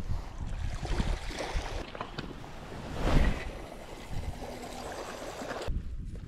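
Sea waves washing against the shore with wind rumbling on the microphone, swelling once about three seconds in; the sound drops away suddenly near the end.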